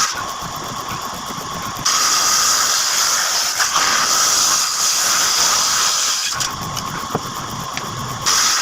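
A power tool running with a loud, high hissing noise that jumps louder about two seconds in, drops back about six and a half seconds in, and jumps up again near the end.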